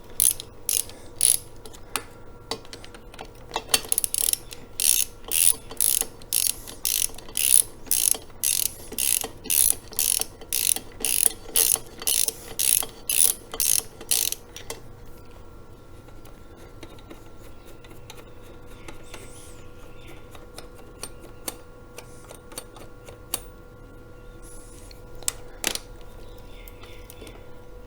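Socket ratchet on a 13 mm socket, clicking in quick back-and-forth strokes about twice a second as engine bolts are run down. The strokes stop about fifteen seconds in, and after that there are only a few scattered light clicks and taps.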